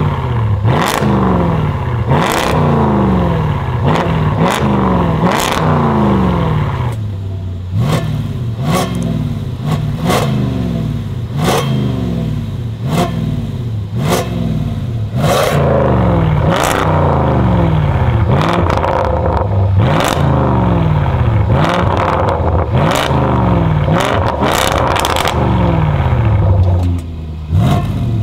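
Range Rover SVR's 5.0-litre supercharged V8, breathing through a titanium exhaust with free-flow 200-cell downpipes, free-revved in quick repeated blips, roughly one every second and a half. The pitch climbs and drops each time, and sharp cracks come between many of the blips.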